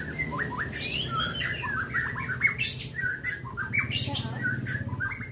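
White-rumped shama (murai batu) singing a fast, varied string of chirps, sweeping whistles and trills, interrupted by several short noisy bursts.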